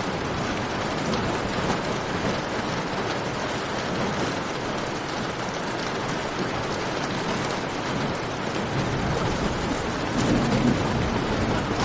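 Steady rain falling in a cave, mixed with the scattered snaps of a crackling campfire. A brief louder low swell comes near the end.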